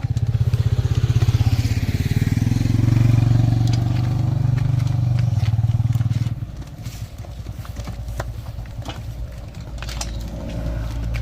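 An engine running with a rapid low pulsing, loud for about the first six seconds, then suddenly quieter to the end.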